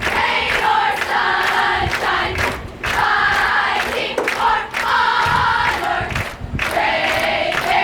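Many voices singing and chanting a fight song together in unison, loud and a cappella, with short breaks between phrases.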